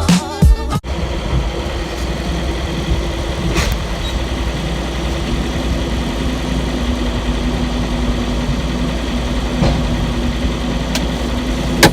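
Diesel engine of a 2018 Volvo VNL 780 semi truck running steadily, with a low steady hum joining about five seconds in.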